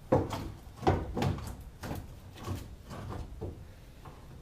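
Heavy metal clunks and scraping as an engine and transmission are shifted about inside a car's engine bay, with a knock near the start, another about a second in, and a few lighter ones after.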